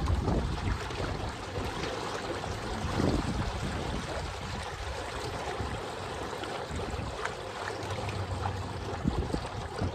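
Water rushing and splashing along the hulls of a Hobie Cat Getaway catamaran under sail, with a low wind rumble on the microphone that eases within the first second or so.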